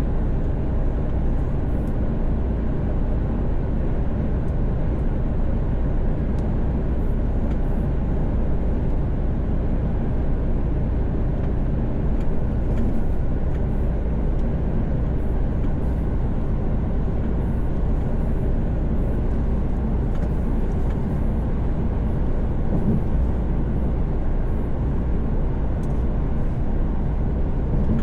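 Mercedes-Benz Actros truck at motorway speed, heard from inside the cab: a steady low engine hum and road noise.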